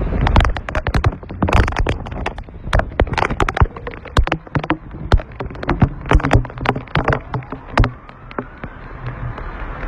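Heavy rain with wind buffeting the microphone, full of irregular sharp taps from drops striking close by.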